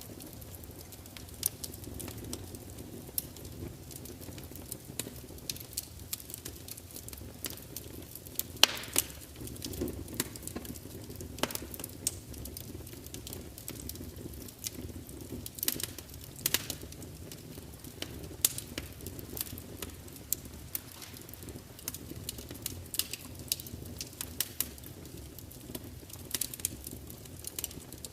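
Wood fire burning in a large open fireplace: a steady low rumble of flames with frequent irregular crackles and pops from the burning logs, one louder pop about eight and a half seconds in.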